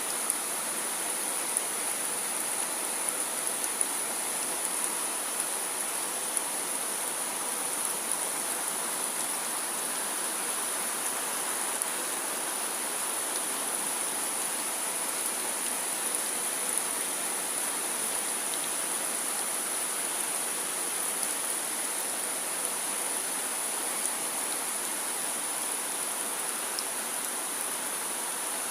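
Steady rain falling, with occasional louder drops standing out briefly above the even patter.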